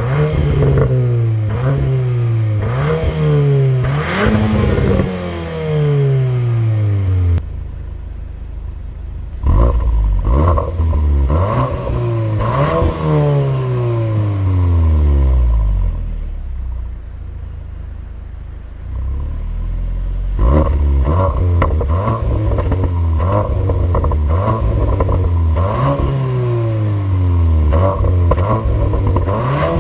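VW Golf R Variant's turbocharged 2.0-litre four-cylinder engine blipped again and again through its stock exhaust, revs rising and falling quickly. A muffled, quieter stretch in the middle holds one longer rev and a low rumble before the blips resume.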